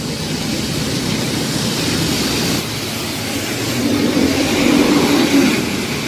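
Steady street traffic noise, with a passing motor vehicle's engine hum rising in the second half.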